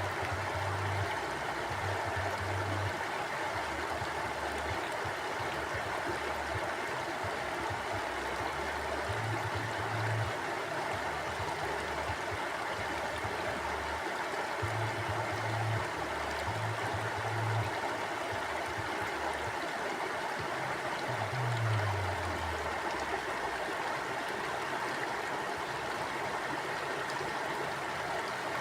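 A mountain stream flowing over rocks: a steady, even rush of water. Short low rumbles come and go underneath several times, the strongest about two-thirds of the way in.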